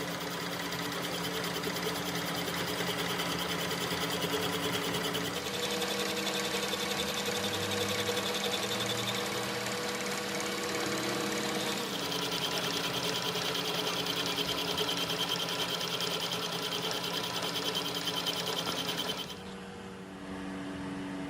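Workshop machine tool running with a steady mechanical whir and hum. Its tone shifts twice, about five seconds and twelve seconds in, and it quietens near the end.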